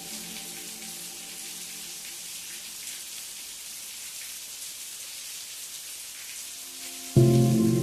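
Steady rain: an even hiss of falling raindrops. Soft background music tones fade out early on, and a loud sustained music chord comes in suddenly near the end.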